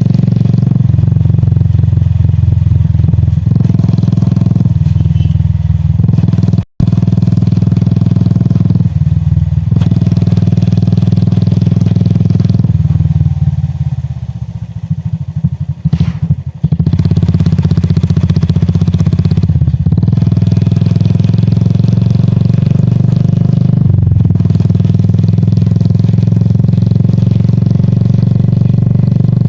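Royal Enfield Classic 350's air-cooled single-cylinder engine and exhaust running steadily while riding. The engine note drops for a few seconds around the middle, the throttle eased off, then picks back up. There is a brief break in the sound about seven seconds in.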